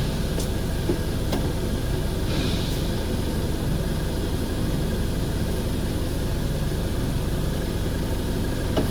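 Steady low mechanical drone of machinery running, with a few faint clicks from handling parts.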